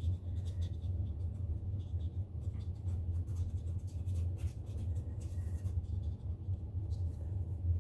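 A paintbrush stroking and dabbing on paper, making faint, scattered scratchy strokes over a steady low hum.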